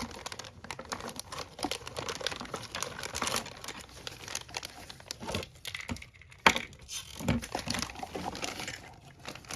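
Plastic packaging crinkling and rustling as small model-kit parts are handled and unpacked, with scattered clicks and one sharp click about six and a half seconds in.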